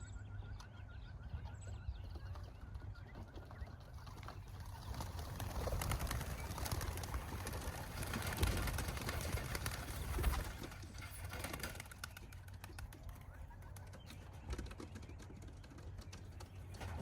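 Young racing pigeons cooing, with a broad rushing noise that swells in the middle and many short clicks.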